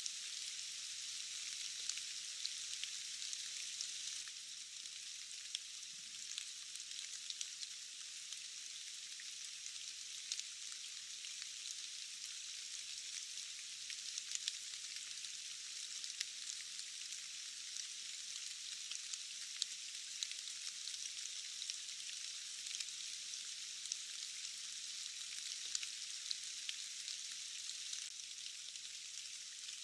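Steady rain: an even high hiss with no low rumble, dotted with many scattered sharp ticks of single drops.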